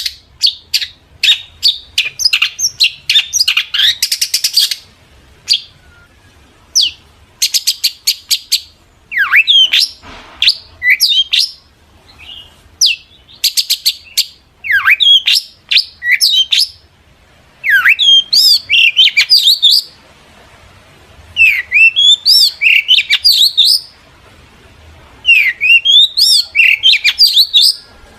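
Long-tailed shrike (cendet) singing in loud bursts: rapid harsh chattering strokes mixed with sharp, quickly falling whistles, in phrases of one to two seconds with short pauses between them.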